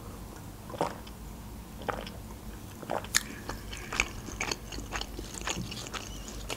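Close-miked chewing of sushi rolls: soft, irregular wet mouth clicks and smacks, roughly two a second.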